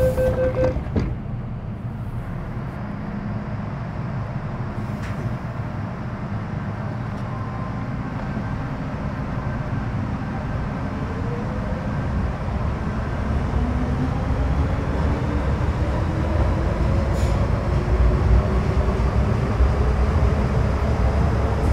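Metro Cammell M-Train electric multiple unit with GEC GTO chopper control, heard on board: a steady rumble from the wheels and running gear. A steady tone stops just under a second in, and from about halfway the chopper and traction-motor whine rises in pitch as the train gathers speed.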